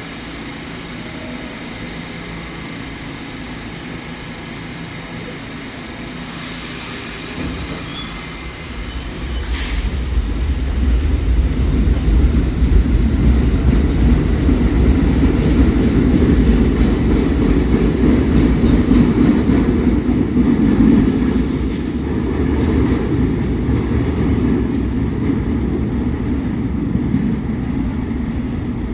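New York City subway train running: a steady hum that grows, about eight to ten seconds in, into a loud low rumble that carries on to the end, with a brief hiss or two as it builds.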